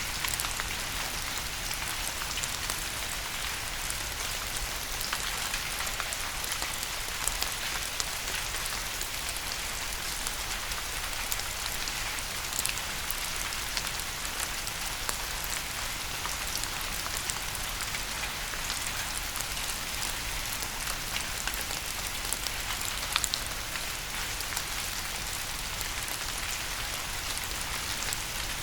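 Steady rain falling, an even hiss with many small drop ticks scattered through it and a couple of slightly louder drip hits.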